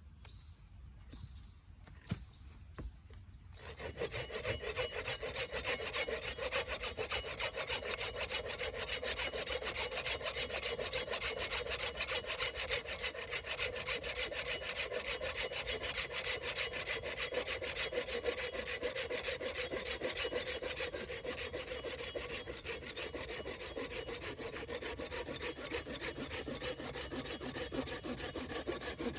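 A saw cutting through a wooden log with quick, steady back-and-forth strokes, starting about three and a half seconds in and going on without a break.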